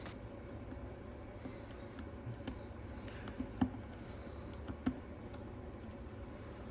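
Scattered light clicks and ticks of a T4 Torx precision screwdriver and small tools on the iPad Pro's tiny internal screws and brackets, the loudest a little past the middle, over a steady low hum.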